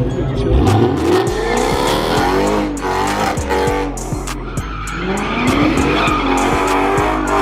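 A car sliding through a drift at a meet: its engine revs rise and fall again and again while the tyres squeal.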